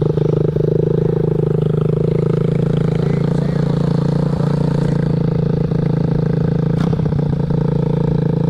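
Mini dirt bike's small single-cylinder engine idling steadily just after an electric start.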